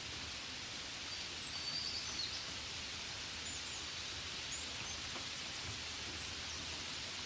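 Steady gentle rain hiss, billed as rain falling on a window. A few short high chirps sound over it about a second in and again near the middle.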